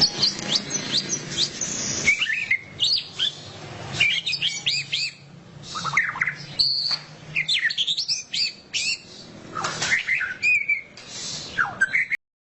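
White-rumped shama (murai batu) singing loudly in a fast, chattering run of whistled notes that sweep up and down in pitch. The song cuts off suddenly just before the end.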